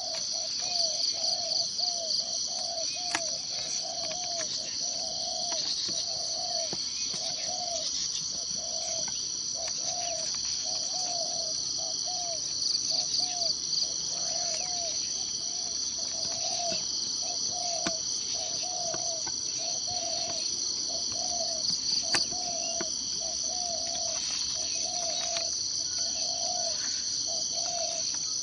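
Forest ambience: a steady, high, pulsing insect chorus, with a low call repeated about every three-quarters of a second, and a few brief chirps.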